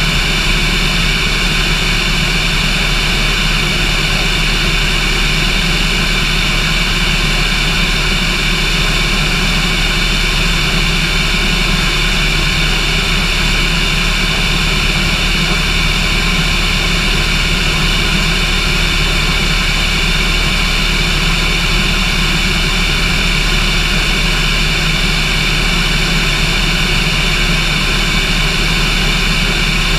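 Cessna light aircraft's engine and propeller running steadily, a constant loud drone with no change in pitch or level.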